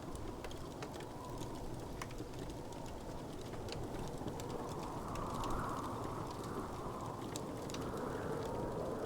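Wood fire crackling: many small, sharp pops and snaps scattered irregularly over a steady low rush of burning.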